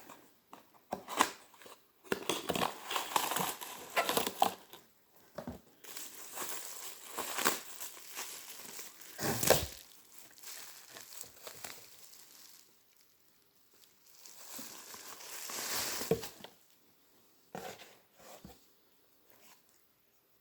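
Packaging crinkling and tearing as an item is unwrapped by hand, in irregular bursts with a few sharp knocks.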